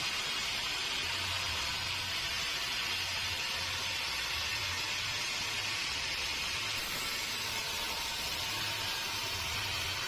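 Steady hissing noise of sawmill machinery running, with a faint low throb coming and going underneath.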